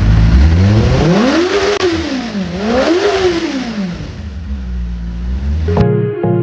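Motorcycle engine revved twice, its pitch rising and falling with each blip, then dropping back toward idle. It cuts off suddenly near the end, replaced by guitar music.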